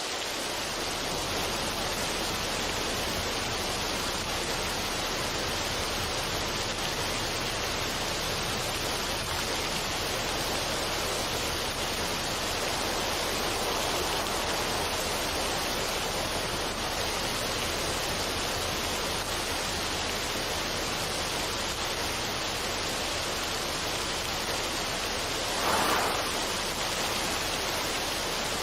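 Steady, even rushing noise with no rhythm or tune, like a waterfall or heavy running water, with one brief louder swell near the end.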